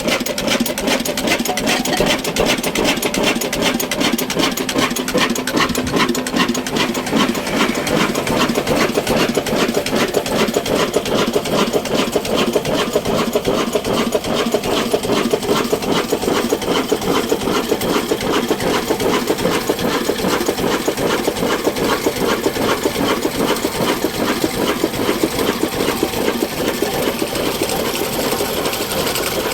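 Old Ruston Hornsby diesel engine running steadily, with a rapid, even mechanical beat.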